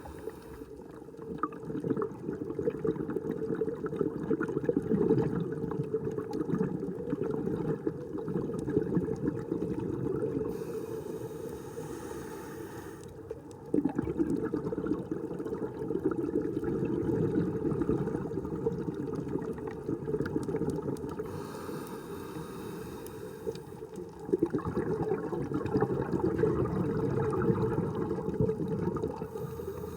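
Water rushing and bubbling in three long surges, each swelling for several seconds before easing off.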